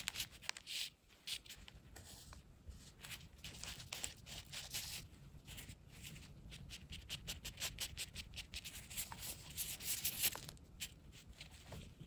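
Faint, busy scratching and light tapping of a small glue brush working Titebond wood glue into cracks in a wooden table leg.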